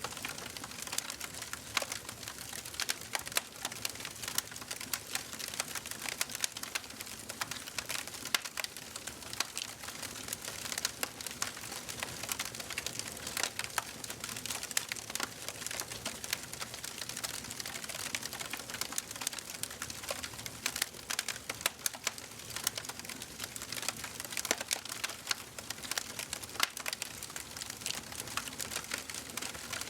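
Fire in a fireplace crackling steadily, with many sharp pops and snaps over a soft hiss.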